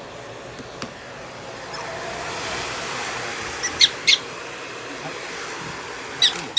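A pet prairie dog giving short, high, squeaky chirps: a few near the middle and two more near the end, over the steady blowing of a hair dryer.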